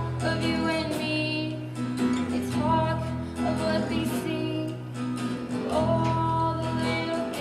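A woman singing a song to acoustic guitar accompaniment. Her melody moves in held notes over steady low notes underneath.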